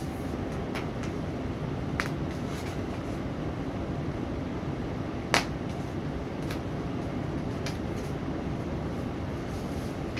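Steady background noise, a fan-like hum and hiss, with a few scattered clicks; the loudest click comes about five seconds in.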